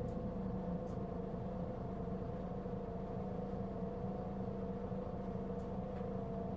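Mitsubishi Fuso Aerostar city bus's diesel engine idling steadily while the bus stands still, heard inside the cabin: a constant low drone with steady higher hum tones above it.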